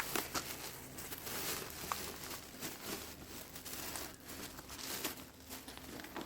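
Irregular rustling and crinkling with scattered small clicks, as things are handled.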